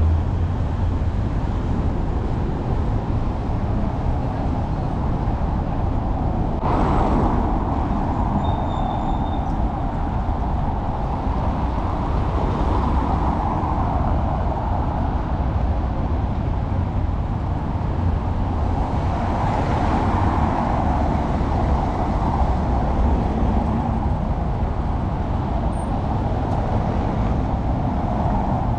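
Old Sofia tram running: a steady low rumble of motor and wheels on rails, with the rolling noise swelling and easing along the way.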